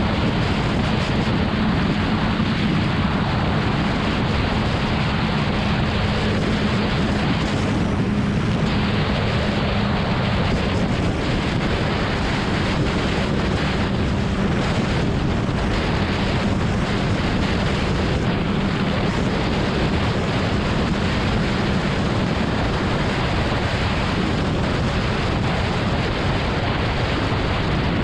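BMW S1000RR's inline-four engine holding a steady drone at highway cruise, under a heavy rush of wind on the microphone.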